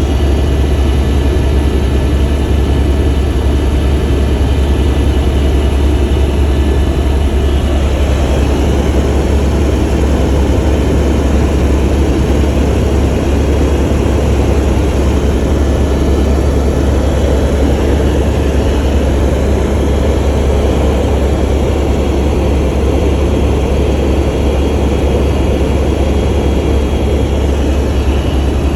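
Helicopter in flight heard from on board: a loud, steady drone of turbine engine and rotors with a strong deep hum. A faint higher tone in it drops out about eight seconds in.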